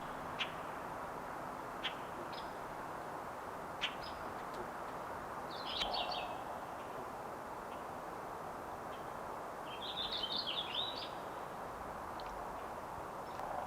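Songbirds chirping: scattered short single chirps and two brief bursts of rapid twittering, about six seconds in and about ten seconds in, over a steady rushing background noise.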